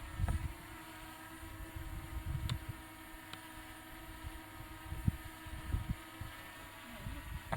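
Small quadcopter drone's propellers humming steadily, one even pitch, with gusts of wind buffeting the microphone and two light clicks in the middle.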